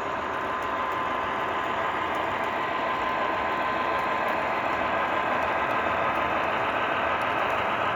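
Model diesel locomotives' onboard sound systems (MTH Proto-Sound) playing steady diesel engine running sounds, mixed with the rumble of the trains on the track. The sound slowly grows a little louder, as if a train is approaching.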